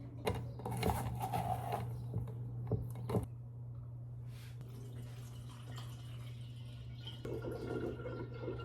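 Kitchen handling while preparing ginger and turmeric juice shots: a few sharp knocks and clinks in the first three seconds, then liquid dripping and trickling, over a steady low hum.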